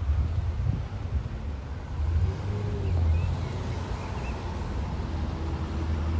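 Road traffic passing: a car's engine hum with a low, uneven rumble, a faint falling engine tone in the middle and again near the end.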